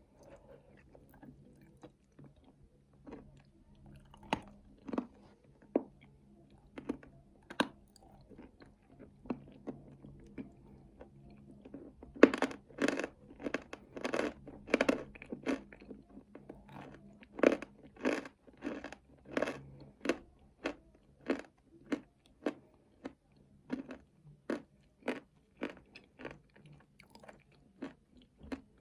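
Close-up mouth sounds of someone chewing nuts with chocolate paste. The crunches are sparse at first, then from about halfway through they come steadily at about two a second.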